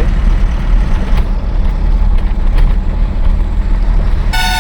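Loaded lorry driving on the highway, its engine and road noise a loud, steady low rumble. Near the end a horn sounds and holds.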